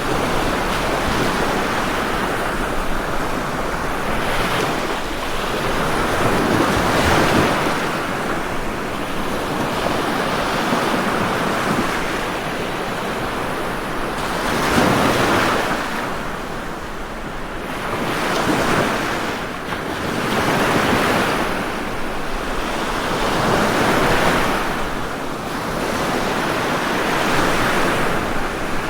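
Ocean waves breaking and washing up on a shore, the surf rising and falling in swells every few seconds.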